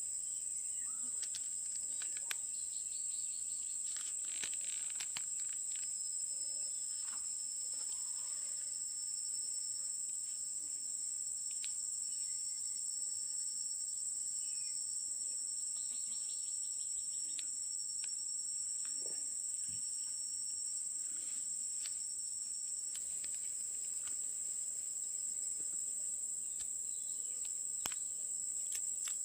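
Steady high-pitched insect trilling that runs on unbroken, with a few faint clicks scattered through.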